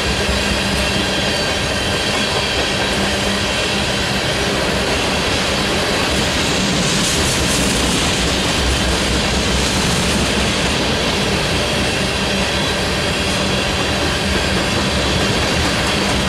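Freight train of ethanol tank cars passing at high speed, a steady loud rush and rumble of wheels on rail.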